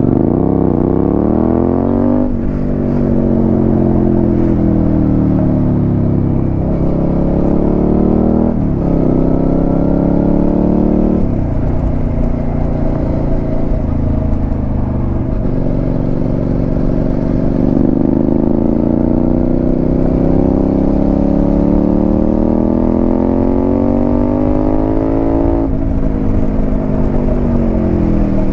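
Suzuki SV650's 645 cc V-twin engine through a Delkevic aftermarket exhaust, heard while riding. The revs climb and fall repeatedly, with sudden jumps in pitch at gear changes about two seconds in, around nine and eleven seconds, and near the end.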